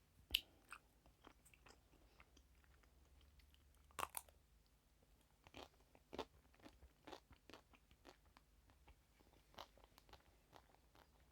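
Close-miked biting and crunching of food, a sharp crunch about half a second in and another loud bite about four seconds in, followed by a run of smaller crunches of chewing.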